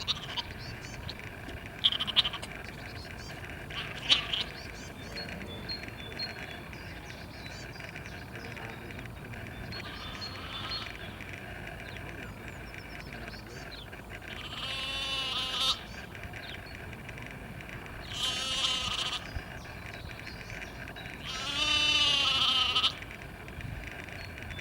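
Livestock bleating: three long, wavering calls about three to four seconds apart in the second half, with small chirps and a few sharp clicks in the background earlier on.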